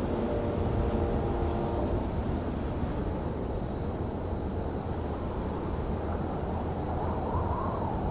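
Railyard ambience: a steady low rumble with a faint high whine, and a brief burst of rapid high chirping about two and a half seconds in.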